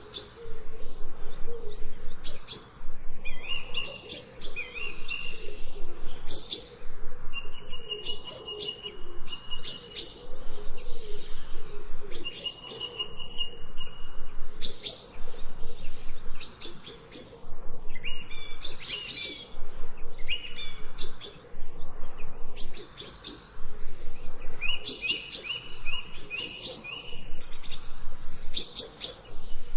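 Songbirds chirping and singing in short repeated phrases, several calls overlapping one after another, with a fainter lower warbling underneath.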